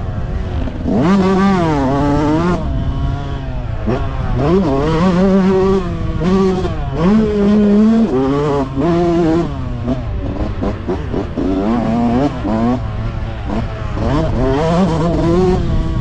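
Motocross bike engines revving hard, the pitch climbing and dropping repeatedly as they accelerate and shift, over a steady low rumble.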